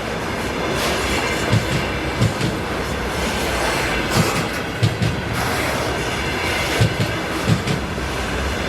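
Freight train wagons rolling past over a steady rumble, their wheels knocking over rail joints in pairs, a pair about every two and a half seconds.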